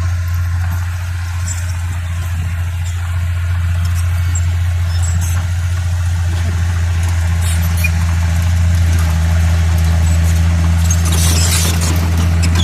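Bulldozer's diesel engine running steadily with a deep, even hum. A second low tone joins about two-thirds of the way through, and a burst of high-pitched scraping or squealing comes near the end.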